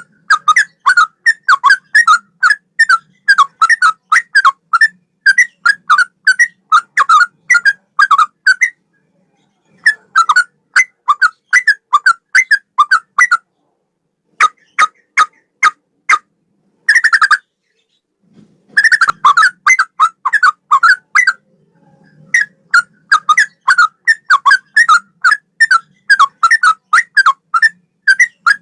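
Yellow-vented bulbul (trucukan) singing a tutor song in the style of a straw-headed bulbul. It is a rapid run of short, clear whistled notes, about three or four a second, in bouts broken by brief pauses.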